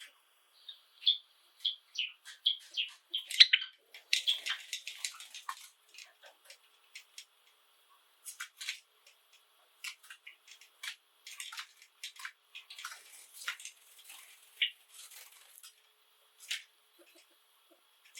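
Java sparrows chirping: a run of high chips that come faster and louder, building into a dense, scratchy song phrase about four seconds in, followed by scattered chips and clicks.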